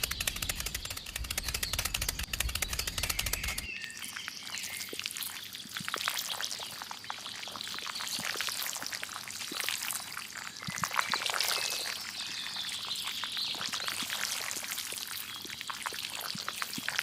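Fast, even ticking over a low hum for about the first four seconds, then water pouring and trickling with scattered small splashes.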